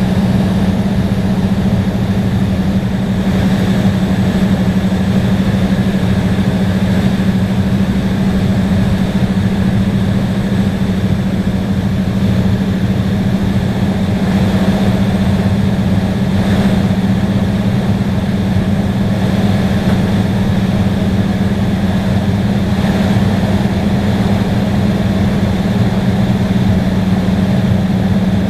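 Steady cabin noise inside an Embraer E175 regional jet: an even, unbroken drone from the engines and air systems with a strong low hum.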